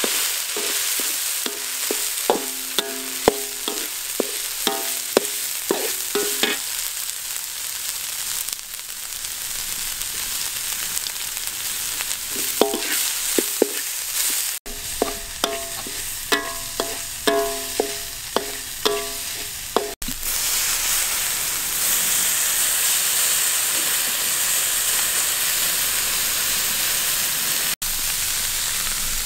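Green herb paste sizzling in hot oil in a metal wok while a steel ladle stirs and scrapes it, clanking and ringing against the pan in two runs of quick knocks. In the last part only the steady sizzle is left.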